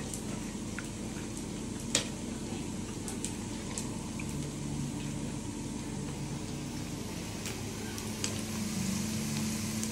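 Onion, garlic and curry leaves frying in oil in a pot, a steady soft sizzle, with a few light clicks and one sharper tap about two seconds in.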